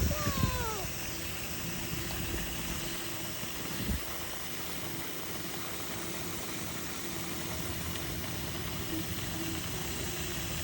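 Steady wind noise, an even rushing hiss of a breeze across the microphone.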